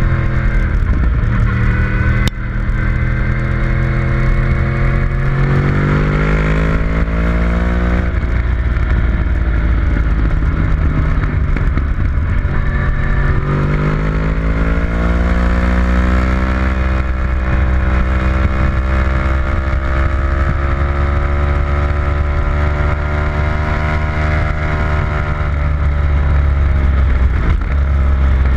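Onboard sound of a vehicle engine under hard acceleration on a racetrack, over heavy wind rumble. The engine pitch climbs, breaks off at a gear change, then climbs again and holds high before slowly easing near the end. A single sharp click comes about two seconds in.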